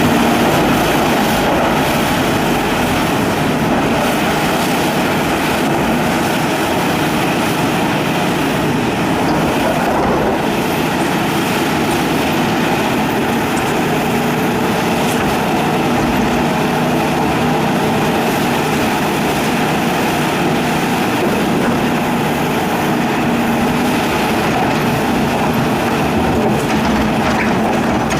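Heavy hydraulic excavator running steadily under load, its engine and machinery making a loud, continuous din.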